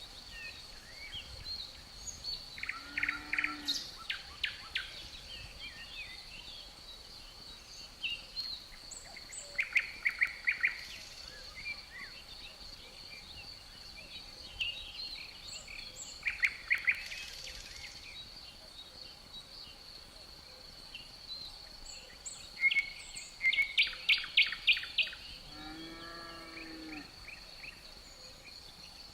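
Songbirds singing in short, rapid trilled phrases, about four bursts, over a steady high-pitched drone. A lower call sounds twice, near the start and near the end.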